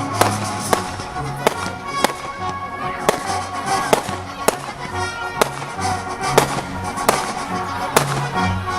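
Fireworks going off in a string of sharp cracks, about a dozen at uneven intervals, over music with a steady bass line.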